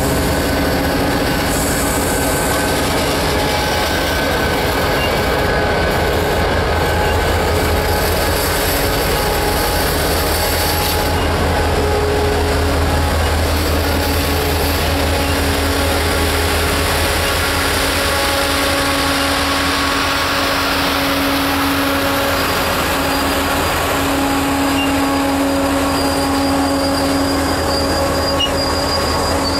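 Florida East Coast Railway train on the move: a loud, steady rail rumble with squealing wheel tones that come and go for a few seconds at a time.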